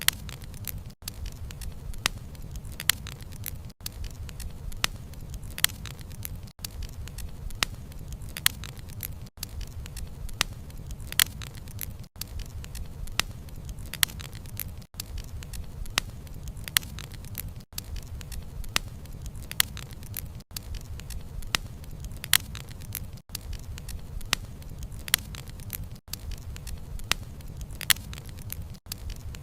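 Wood fire crackling, with frequent sharp pops of burning wood over a steady low rumble of flames. The level dips briefly about every three seconds.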